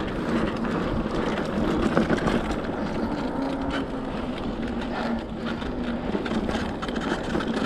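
Mountain bike rolling over a dirt trail under pedal power, its electric assist dead: steady tyre and wind noise with many small rattles and clicks.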